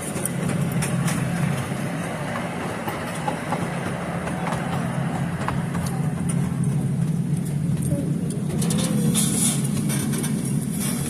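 Passenger train running steadily, heard from on board: a constant low rumble with a haze of running noise and scattered clicks and rattles.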